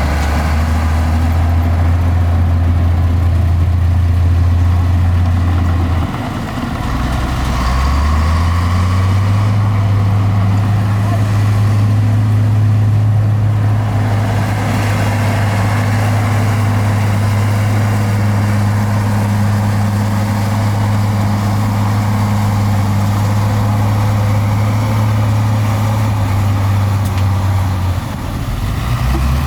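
Heavy diesel engine of earthmoving machinery running under load. Its note dips about six seconds in, climbs to a higher steady pitch a couple of seconds later, and drops again near the end.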